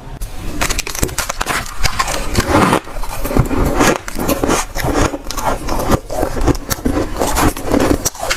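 Dry, soft freezer frost being bitten and chewed close to the microphone: a dense run of crunches.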